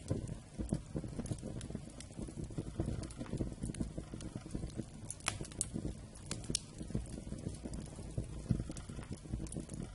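Wood fire crackling, a dense low crackle with sharp pops now and then. The clearest pops come a little past halfway.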